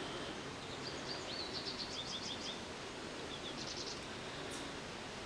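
Steady background hiss with faint, high, quick runs of chirps like a small bird's, about a second in and again just before four seconds.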